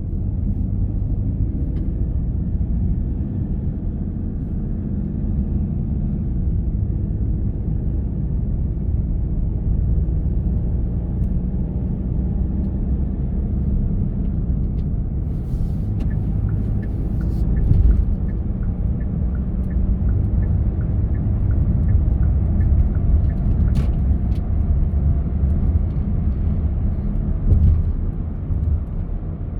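A car driving on the road, with a steady low rumble of engine and tyres. Partway through comes a light ticking about twice a second for several seconds, with a few scattered knocks.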